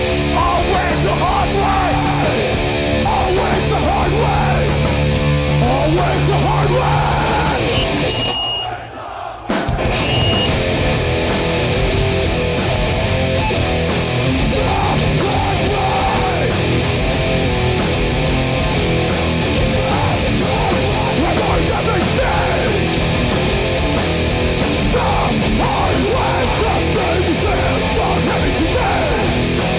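Hardcore punk band playing live, loud distorted guitars, bass and drums. About eight seconds in the music drops away for a second and a half, then the full band crashes back in.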